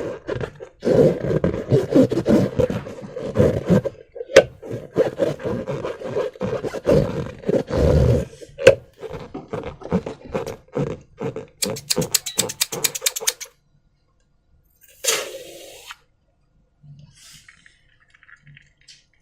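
Slime and trapped air squeezed through a balloon, squelching and sputtering with a buzzing note and sharp wet pops. It ends in a fast rattle of about ten pops a second, then a short hiss, then faint small squishes.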